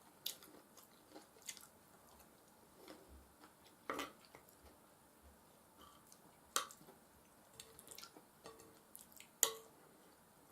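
Close-miked eating sounds: a person chewing mashed potatoes and beef stew, with scattered wet smacks and clicks of the mouth, the sharpest about 4, 6.5 and 9.5 seconds in.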